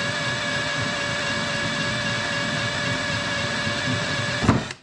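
Electric drill running at a steady whine as it bores down through the centre of an aluminium rivet to free the rivet's head. It stops with a brief knock near the end.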